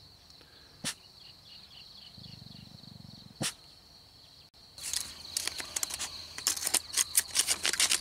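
Steady high-pitched insect drone, with two single sharp clicks in the first half, then a dense run of loud crackling rustles from about halfway through.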